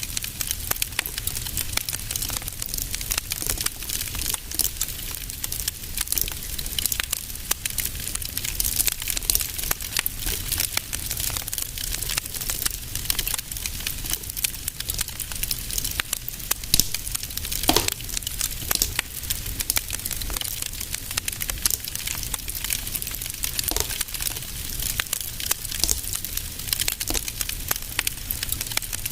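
Wood fire crackling in a fireplace: a steady run of small crackles and snaps over a low rumble, with a few louder pops, one of them carrying a brief falling whistle a little past the middle.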